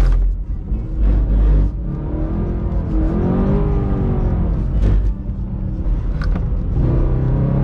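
BMW M3 E92's V8 engine heard from inside the cabin while drifting, revs climbing and dropping repeatedly, with one long swell and fall about halfway through.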